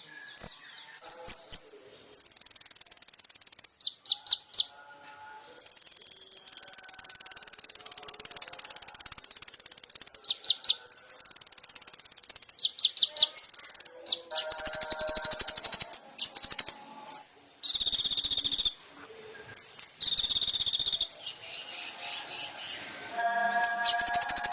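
Bird-song training recording of a kolibri ninja (sunbird) with mixed-in filler songs. It holds very high, rapid chirping trills and long buzzy, cricket-like reeling stretches, with fuller chirps that take in lower notes near the middle and at the end.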